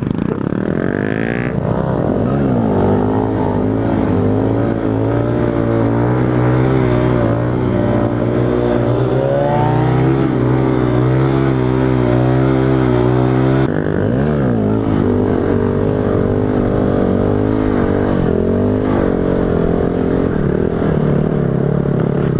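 KTM 690 single-cylinder motorcycle engine under way: it picks up about two seconds in and holds a fairly steady speed. About fourteen seconds in the sound changes abruptly, and the engine speed then rises and falls several times with throttle changes.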